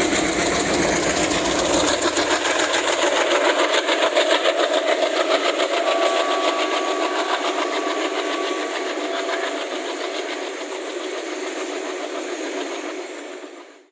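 ALCO diesel locomotive engine chugging, a steady pulsing exhaust beat, which fades over the last few seconds and then cuts off suddenly.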